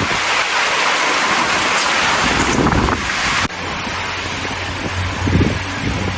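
Steady rushing hiss of wind and light rain outdoors. About three and a half seconds in it cuts off abruptly, replaced by a steady low hum with a few soft knocks.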